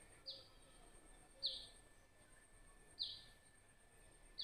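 Faint, short high chirps from a small bird, each falling slightly in pitch, four times at about a second and a half apart.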